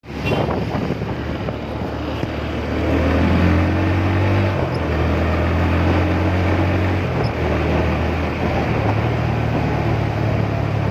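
Motorcycle engine running under way, its note shifting in pitch a few times, over a steady rush of wind and road noise.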